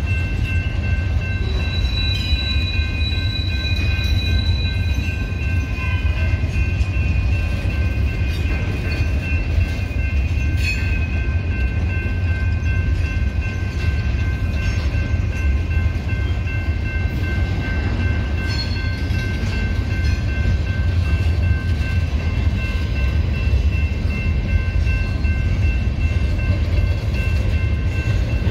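Freight train of boxcars rolling past close by: a loud, steady low rumble of steel wheels on rail, with a steady high ringing of several pitches over it.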